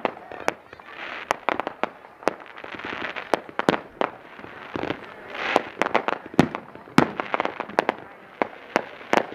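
Fireworks show: aerial shells bursting with sharp bangs several times a second, over a continuous crackle.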